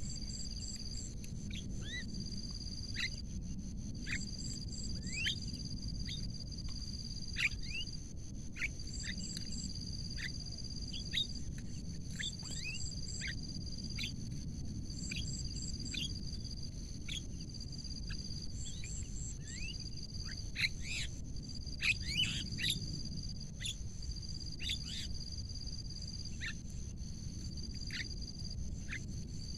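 Birds giving many short, quick rising chirps, scattered irregularly and somewhat louder around the middle, over a steady high-pitched insect buzz that pauses briefly every second or two and a low background rumble.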